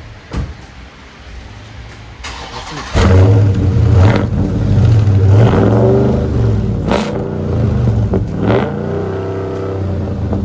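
2020 Dodge Charger Scat Pack's 6.4-litre HEMI V8 with its mufflers deleted, cranked and fired on a cold start about three seconds in. It is then revved several times in quick blips and settles into a steady idle.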